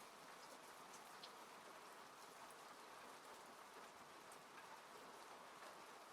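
Faint, steady rain falling on a car, heard from inside, with scattered individual drops ticking through the even patter.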